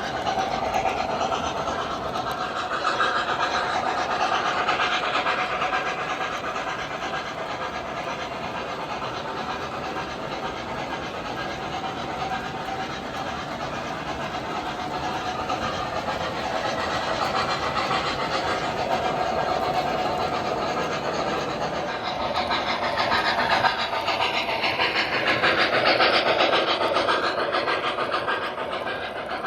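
O gauge model steam locomotives with their trains running on three-rail track: wheels rolling and clicking steadily over the rails, along with the engines' onboard steam sounds. The sound swells louder for a few seconds near the end.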